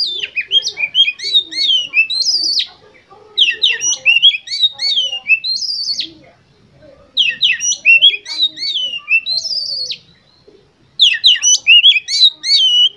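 Oriental magpie-robin (kacer) singing loud, rapid runs of whistled and chirped notes in four bouts, each about two and a half seconds long, with short pauses between them.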